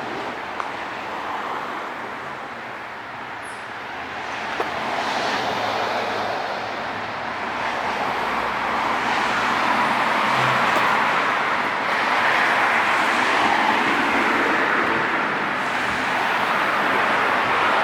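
City street traffic: cars passing with tyre and engine noise that swells as vehicles go by, quieter a few seconds in and building louder through the second half.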